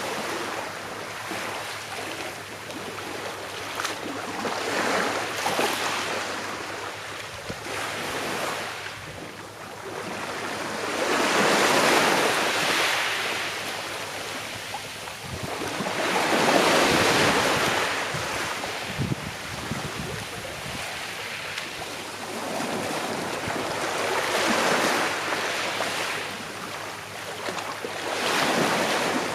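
Gentle sea waves breaking on the shore and washing back. The surf rises and falls in slow surges every five to seven seconds.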